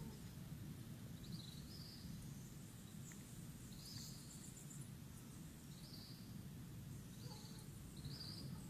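Faint outdoor ambience: a steady low rumble with short high chirps every second or two, from small birds or insects.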